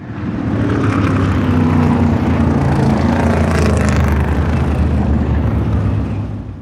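A motor vehicle's engine running steadily with a low, even hum under a rushing noise. The sound fades in at the start and fades out near the end.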